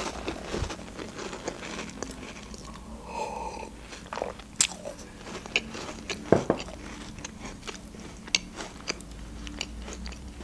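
A person chewing food with the mouth closed, close to the microphone, with many short mouth clicks scattered throughout.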